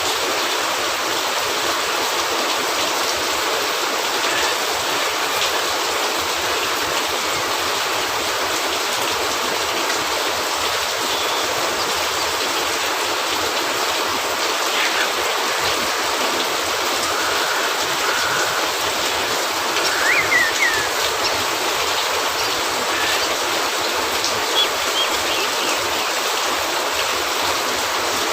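Steady rain falling in an even hiss, with faint crackle and pops from a wood fire in a fireplace. A few short, high chirps come about two-thirds of the way through.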